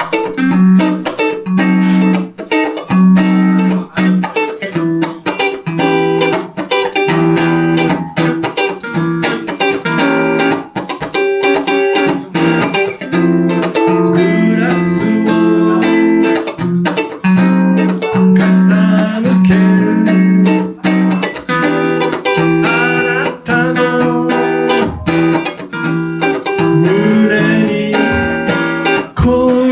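Solo electric guitar, a Van Zandt Telecaster through a Roland JC-120 amp, playing a blues: plucked melody lines and chords over a repeating low bass note.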